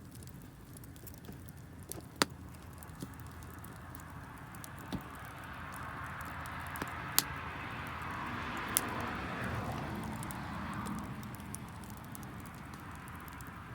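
Wood fire of damp firewood crackling, with a few sharp pops, and a hiss that swells for a few seconds in the middle and fades again.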